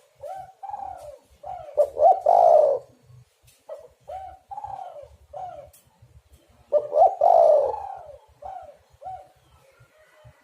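Spotted dove (tekukur) cooing: a run of short coos, with two louder, longer cooing phrases about two seconds and about seven seconds in.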